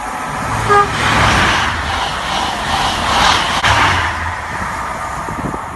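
A train running at a station platform: a steady rush of noise over a low hum, with a short pitched beep about a second in.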